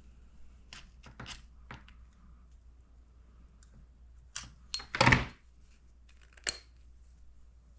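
Scattered clicks and clinks of engine parts and tools being handled on a workbench, with one heavier knock about five seconds in and a sharp click soon after.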